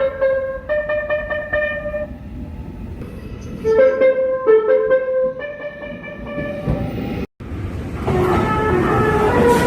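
Subway train horn sounding a series of short blasts that step between two or three pitches. After a sudden break, another horn sounds over the noise of a running train.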